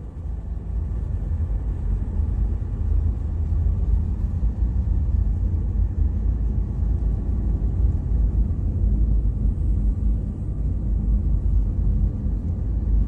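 Steady low rumble, loud and unbroken, with its energy in the deep bass.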